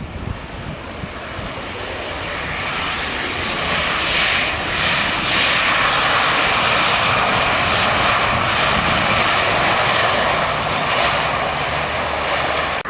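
Jet airliner landing. Its engine noise swells over the first few seconds into a loud, steady rush, then eases slightly near the end.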